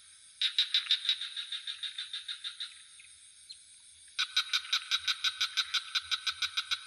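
Frogs calling in rapid pulsed trills of about six pulses a second, in two bouts with a pause of about a second and a half between them. A steady high-pitched insect drone runs underneath.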